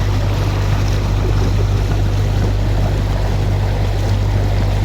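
Tour boat's engine running steadily with a low hum, under the noise of water moving past the hull.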